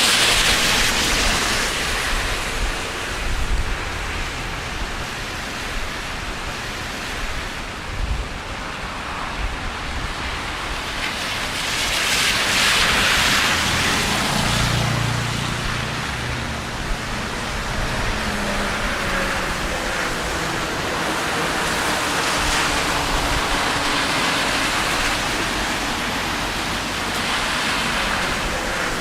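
Steady rain on a city street, with the hiss of vehicles passing on the wet road swelling up at the start, about midway, and twice more near the end.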